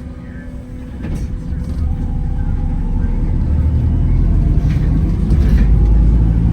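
Wright Gemini 2 hybrid double-decker bus pulling away, heard from the passenger deck: its drive and engine build from a quiet rumble to a loud, deep running noise as it gathers speed, with a faint whine in the middle.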